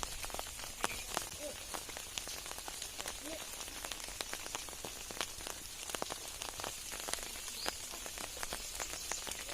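Rain falling: a dense, irregular patter of drops hitting surfaces, with some louder single drips standing out.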